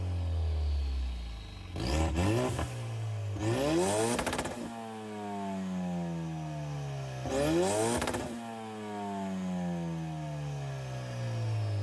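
Ford Mustang EcoBoost's 2.3-litre turbo four-cylinder revved hard three times through a catless downpipe that dumps straight out with no exhaust behind it. Each rev climbs quickly and then falls slowly back, with sharp popping cracks at the top of the revs.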